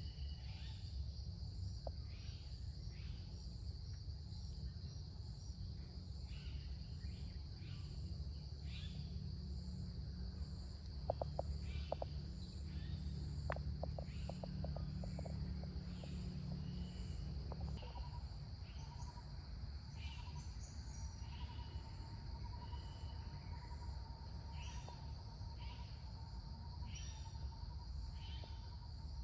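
Jungle ambience: a steady, high-pitched insect drone with repeated shorter chirping calls over a low rumble. A few sharp clicks come in the middle, and a second thin, steady tone joins a little past halfway.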